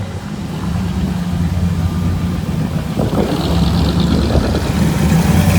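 Vehicle engine running with a steady low hum, growing louder over the second half as more engine noise builds.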